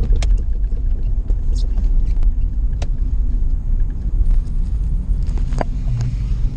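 Lada Priora driving, heard from inside the cabin: a steady low rumble of road and engine, broken by a few short sharp knocks. The owner takes these for the rear-suspension knock he is trying to track down.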